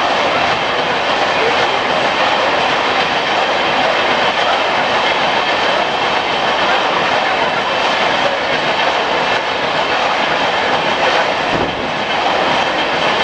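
A long Indian Railways passenger train's coaches rolling past on the track: a steady rushing rumble of wheels on rail that dips briefly near the end.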